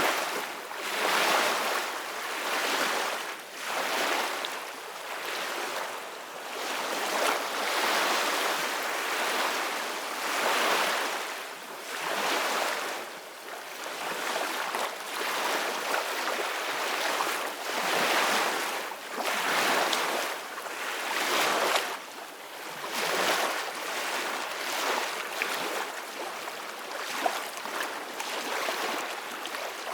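Ocean waves breaking and washing up on a beach, the surf rising and falling in a slow, repeating surge every two to three seconds.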